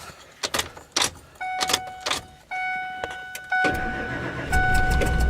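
A few clicks, then a dashboard warning chime beeping about once a second; about three and a half seconds in, the 2001 Ford F-250's engine catches on a cold start and runs under the chime.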